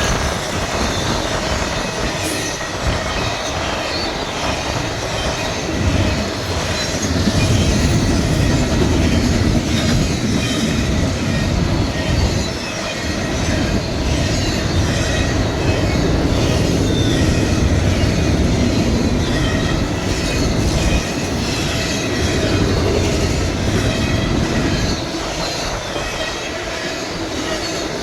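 Freight train rolling past, its cars rumbling steadily over the rails with wheel squeal and clicking over rail joints.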